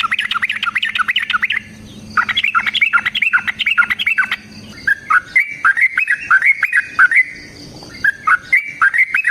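Yellow-vented bulbul (trucukan) singing long, fast chattering phrases of bubbly, down-slurred notes. There is a break about 1.6 s in, another around 7 s, and the song picks up again near the end.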